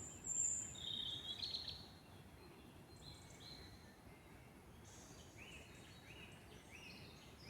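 Several songbirds singing in a forest over a steady low background rush. Near the start a high, sharp note and a burst of calls are loudest; from about halfway on, one bird repeats short notes of about the same pitch.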